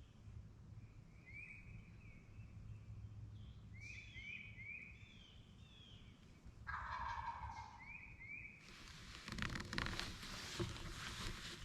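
Wild turkey tom gobbling once, a loud rattling call of just under a second past the middle, while a small songbird chirps in short rising notes throughout. In the last few seconds comes a louder rustling and scuffing noise full of small clicks.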